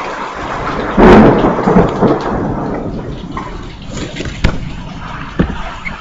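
Heavy thunderstorm: steady rain with a sudden loud thunderclap about a second in that rolls away over the next couple of seconds, then a few sharp ticks near the end.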